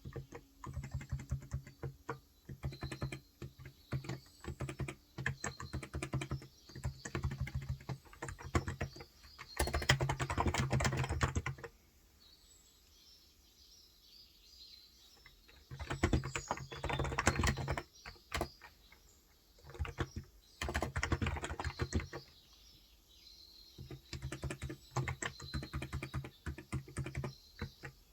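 Typing on a Cox Endeavour electrocapacitive (Topre-style) tenkeyless keyboard with 35 g switches, in runs of key presses broken by pauses of a few seconds. Faint bird chirps sound in the background.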